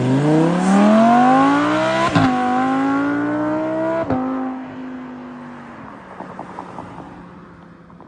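Sports car engine accelerating hard through the gears: the pitch climbs, drops sharply with upshifts about two and four seconds in, then holds and fades as the car drives away.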